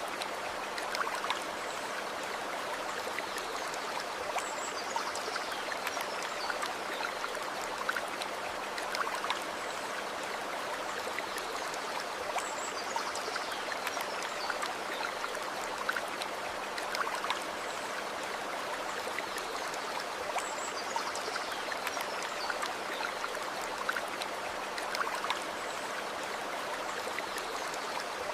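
Water flowing steadily in a stream, a continuous rushing and babbling. Faint high chirps falling in pitch recur about every eight seconds over it.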